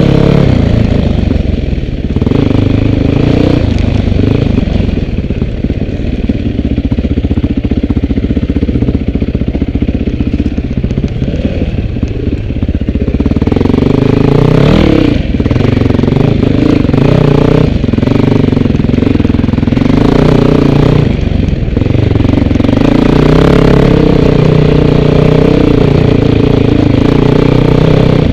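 Off-road vehicle engine running loud and steady, with its pitch rising and falling several times as the throttle is worked over the trail.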